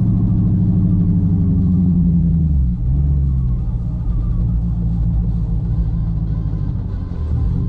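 Dodge Challenger engine and exhaust rumbling while driving. About three seconds in the engine note drops and then runs lower and a little quieter.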